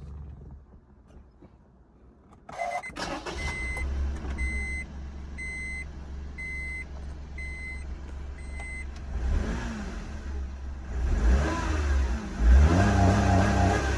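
Honda N-ONE's 658 cc three-cylinder engine cranked and started about two and a half seconds in, then running at idle while a dashboard warning chime beeps about six times. From about nine seconds the throttle is blipped, the engine revving up three times.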